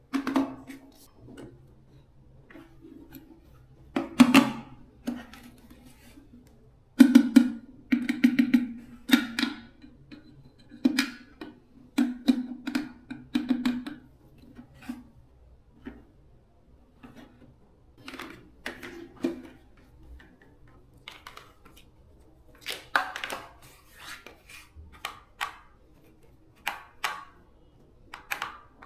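Irregular knocks and clatters of hard parts being handled and struck during a repair, many with a short low ringing after them. Some come in quick clusters, the loudest about 4 s and 7 s in.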